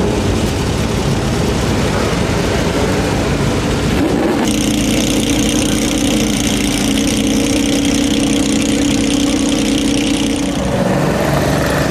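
Engines of historic rally cars running and idling. From about four seconds in, a steady, even drone from a close car idling, a Porsche 911 with smoke at its exhaust.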